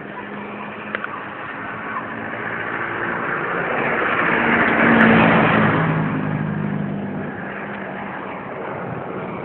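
A motor vehicle passing, its engine and road noise growing louder to a peak about halfway through and then fading.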